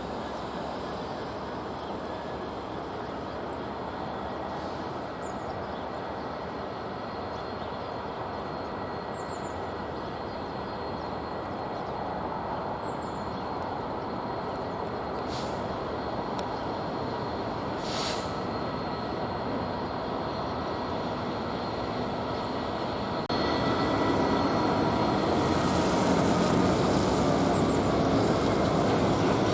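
Diesel-hauled freight train rolling past, its wagons' wheels rumbling steadily on the track, with occasional brief clanks and faint wheel squeal. The sound grows louder in a step about three-quarters of the way through.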